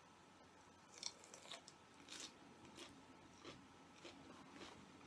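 Close-miked chewing: soft, faint crunches and mouth clicks at an uneven pace, roughly one or two a second.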